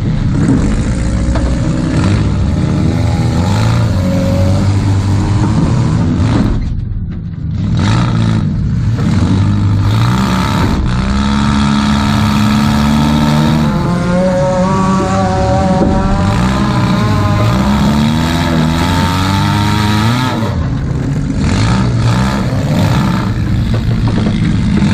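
Demolition derby Toyota Camry's engine revving up and down under hard driving, heard from inside the stripped cabin, easing off briefly about seven seconds in.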